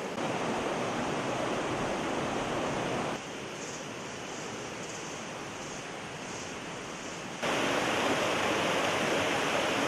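Steady rushing of water. Its loudness drops suddenly about three seconds in and jumps back up louder about seven seconds in.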